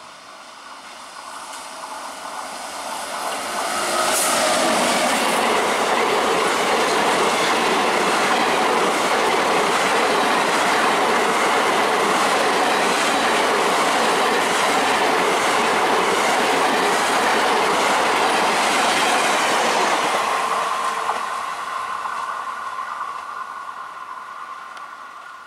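A WAP-7 electric locomotive and its long rake of passenger coaches pass close by. The sound builds as the train approaches, stays loud for about sixteen seconds with the wheels clicking over the rail joints, then fades as the last coach moves away.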